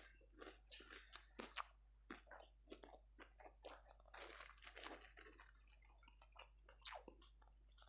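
Faint, close chewing and crunching: a person eating ayam geprek, smashed fried chicken, with many small irregular crunches.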